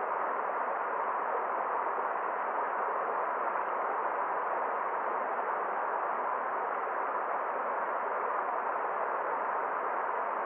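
Forest stream flowing: a steady, even rush of water with no change in pace or loudness.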